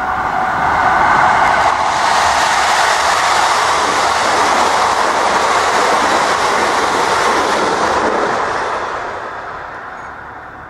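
KiHa 85 series diesel limited express train passing close by at speed. A few steady tones fade out in the first second, then the rushing clatter of wheels on rail holds and dies away near the end as the train draws off.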